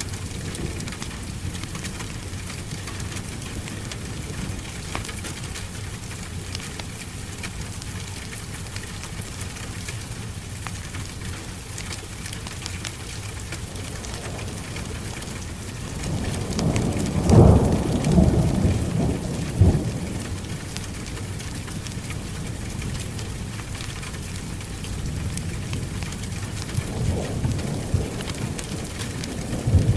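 Steady heavy rain on a surface, with a loud rolling thunder clap about halfway through and more thunder building near the end.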